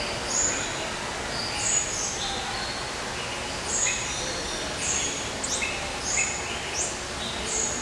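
Captive birds in an aviary chirping and calling, with short high-pitched phrases repeating every second or so over a steady background noise.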